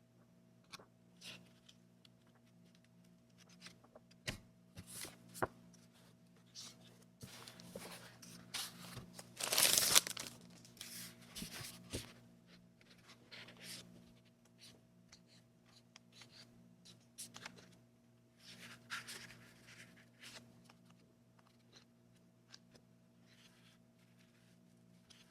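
Paper and packaging being handled: scattered small rustles and clicks, with one louder tear lasting about a second around ten seconds in.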